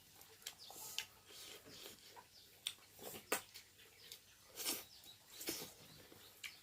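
Faint scattered clicks and light knocks, with a few short high chirps in between.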